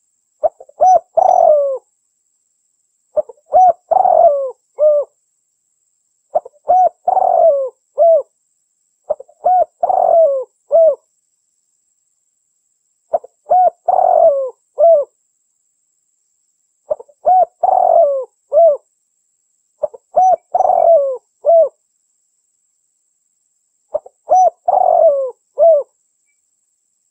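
A female derkuku dove cooing: about eight phrases, each a quick run of several low, curling coos, repeating every three to four seconds with short silences between.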